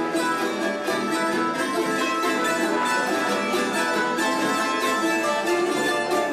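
Trio of bandurria, laúd and guitar playing an instrumental carnival melody, with rapid plucking.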